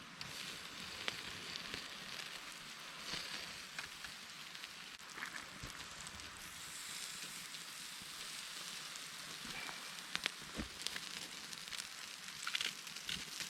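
Campfire and grill sizzling and crackling steadily, with scattered sharp pops, more of them in the second half.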